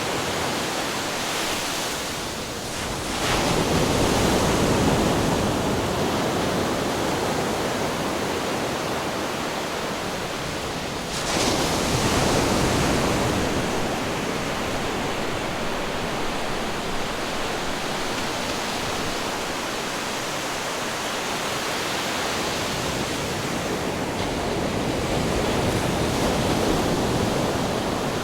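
Ocean waves crashing against rocks: a continuous rush of surf with heavier waves breaking about three seconds in, again at about eleven seconds, and more softly near the end.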